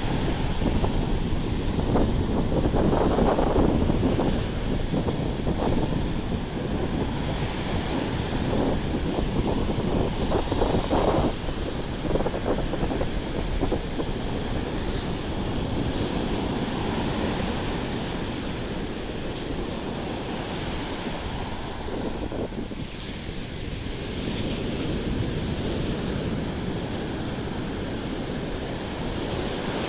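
Waves breaking and washing up the beach, with wind buffeting the microphone. The wash swells and fades in surges, loudest a few seconds in and again around eleven seconds, then settles to a steadier rush.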